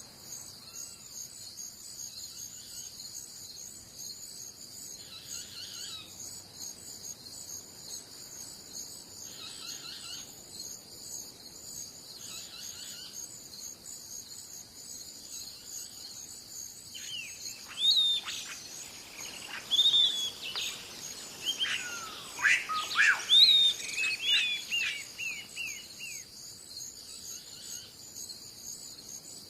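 Crickets chirping steadily throughout, with a songbird breaking in over the second half with a run of rapid, sweeping whistled calls.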